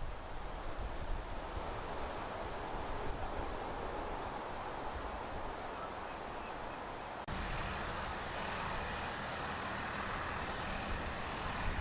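Steady outdoor background hiss with a few faint, short, high bird chirps in the first half. The background changes abruptly a little past halfway.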